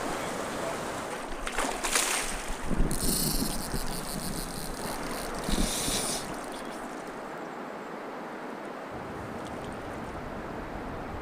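Wind buffeting the microphone over water lapping at the shore, with a few short knocks and splashy bursts in the first six seconds, then a steadier, quieter hiss.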